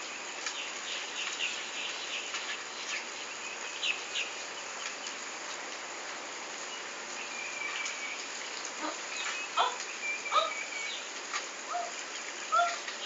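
Scattered bird chirps and short whistled calls over a steady outdoor hiss, with a few louder calls in the second half.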